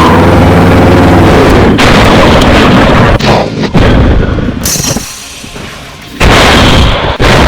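Mouth-made sound effects for an anime energy-blast fight, loud and distorted into the microphone. A voiced, pitched charging sound gives way to noisy blasts and explosion sounds. These die down briefly about five seconds in, and a loud blast starts about six seconds in.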